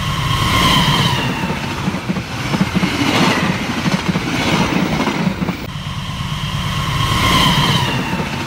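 Train running past on rails: a steady rhythmic clatter of wheels over the track with a low rumble. Twice, about half a second in and about seven seconds in, a brief high squeal falls slightly as it ends.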